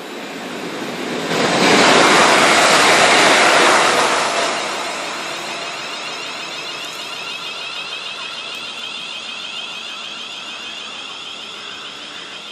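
Train passing through the station at speed: a rushing roar that builds, is loudest for about three seconds, then fades slowly as the train recedes.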